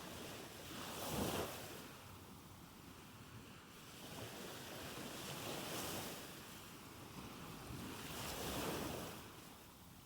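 Soft ocean waves washing on a shore, swelling and fading three times.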